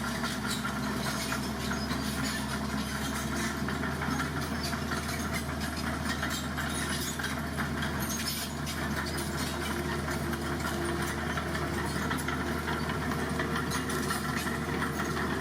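Dump truck's diesel engine running steadily, with a slight change in its tone about three and a half seconds in.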